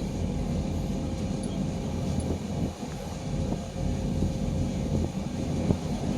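Passenger train running on the track: a steady low rumble of wheels and carriage, with a few faint clicks.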